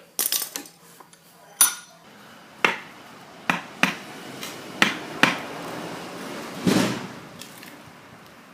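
A splitting maul head being knocked down onto its wooden handle: about six sharp, separate knocks spread over a few seconds, then a short rushing noise near the end.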